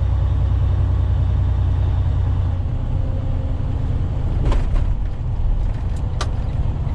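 Steady low drone of a semi-truck's engine and road noise heard inside the cab while driving, with a few short clicks in the second half.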